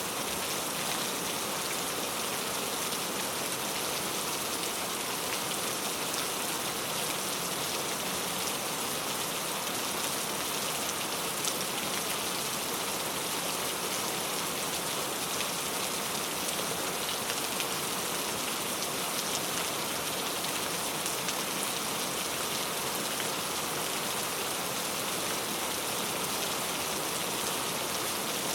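Very heavy rain falling, a steady even downpour with no letup.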